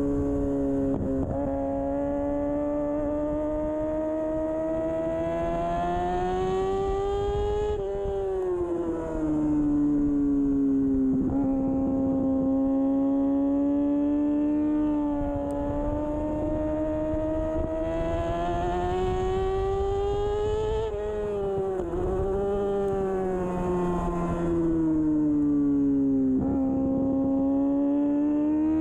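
2013 Kawasaki Ninja 636's inline-four engine running hard under race acceleration. Its pitch climbs steadily and then drops sharply about six times as it shifts through the gears.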